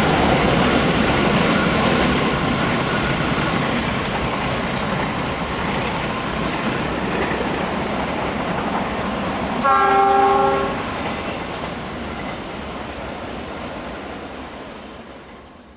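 Indonesian diesel train passing with a loud rumble and clatter of wheels on rail that slowly fades as it moves away. About ten seconds in, the locomotive horn sounds one blast lasting about a second.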